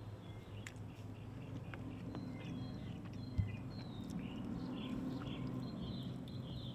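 Birds chirping outdoors, short high calls scattered throughout, over a steady low hum, with a single thump about three and a half seconds in.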